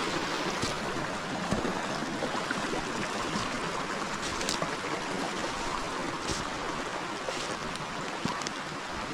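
Forest river flowing with a steady rush of running water, with a few faint clicks over it.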